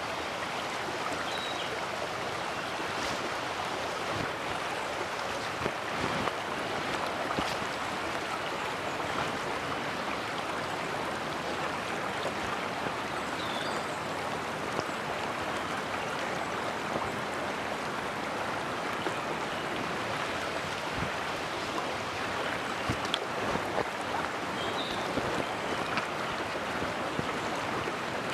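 Mountain stream water rushing steadily, with a few faint short high chirps and light clicks over it.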